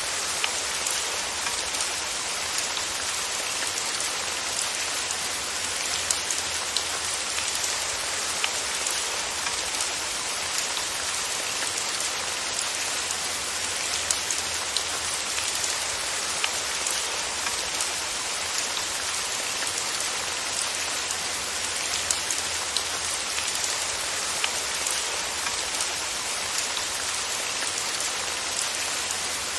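Steady rain falling: an even hiss with scattered sharper ticks of individual drops.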